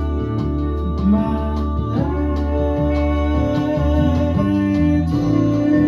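Live band music: a singer holding a long sung line over guitar accompaniment and changing low bass notes.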